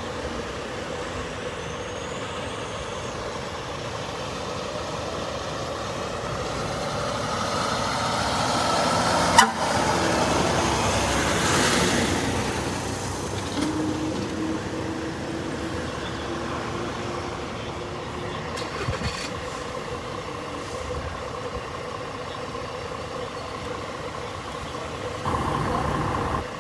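Street traffic noise with heavy vehicles running. A louder vehicle passes about eight to thirteen seconds in, with a sharp knock near its peak.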